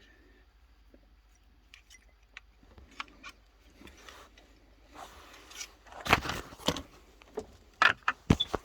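Clicks and light rattling of a Makita 18 V battery pack's cells and parts being handled: faint scattered clicks at first, then a run of louder clicks and knocks over the last few seconds.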